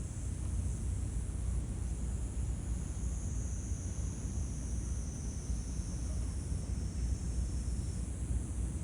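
Steady background noise: a constant low rumble with a high-pitched hiss, and no distinct animal calls.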